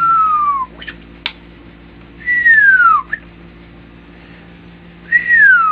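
A clear whistle gliding down in pitch, heard three times, each lasting under a second, with a short sharp click between the first two.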